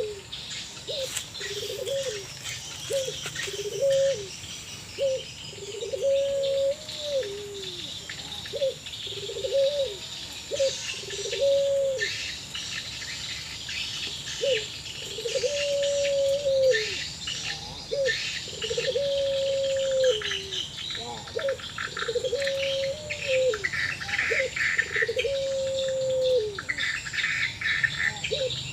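Puter pelung doves cooing back and forth: a repeated short note followed by a long, held coo that drops at its end, over and over. The keeper is unsure whether it is a sad call or a breeding-condition call. Higher chirping from smaller birds or insects runs beneath, thicker in the second half.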